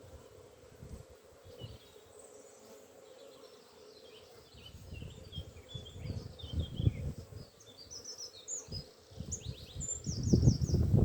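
Small songbirds chirping in quick, short notes, busier near the end, over a faint steady hum of honeybees around the open hive. Low rumbles of wind and handling come about two-thirds of the way in and again near the end.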